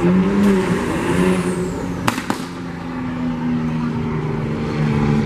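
A car engine running steadily. About two seconds in there are two sharp cracks, a quarter second apart.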